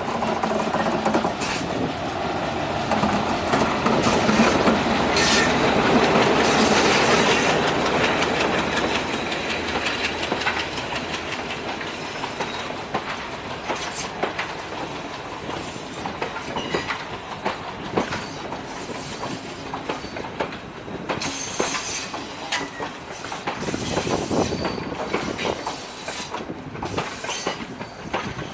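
Departing train's coaches rolling past, the wheels clicking over rail joints in a steady clickety-clack, loudest a few seconds in and then easing off.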